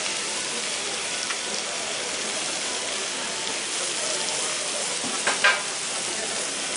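Food frying on a hot cooking surface, a steady sizzle throughout, with a short louder noise about five seconds in.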